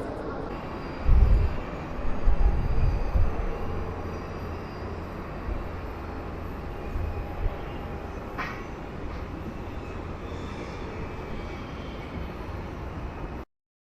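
Jet airliner engines running at a distance: a steady rumble with a faint high whine. Wind buffets the microphone in heavy low gusts about a second in. The sound cuts off abruptly near the end.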